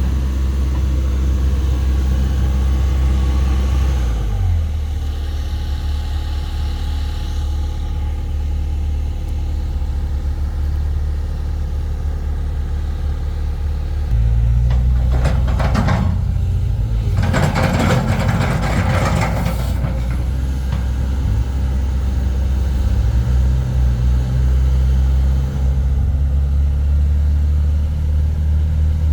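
Caterpillar 320D2 GC excavator's four-cylinder ACERT diesel engine running steadily. Its note changes about four seconds in and grows louder about fourteen seconds in, and a rushing hiss sounds for a few seconds a little after that.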